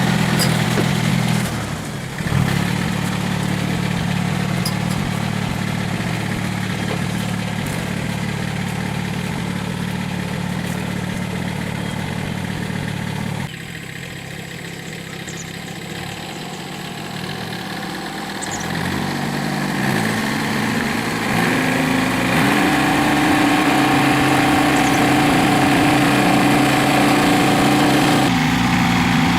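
Small engine running steadily. About fourteen seconds in it drops to a lower, quieter speed, then over the next several seconds it speeds up and holds a higher, steady pitch.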